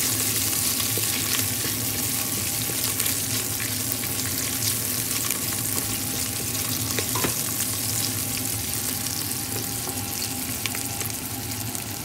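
Chicken skin and fat pieces sizzling in a little oil in a stainless steel pot, with scattered pops and crackles, as the fat renders out and the skin browns.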